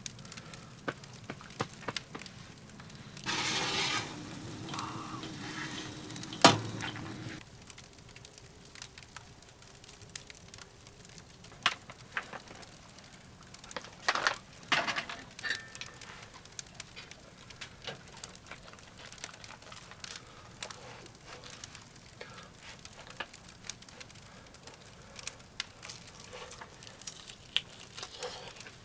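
Firewood crackling in a wood stove, with irregular small pops and clicks. About three seconds in, a louder rushing noise lasts for around four seconds, and one sharp crack near its end is the loudest sound.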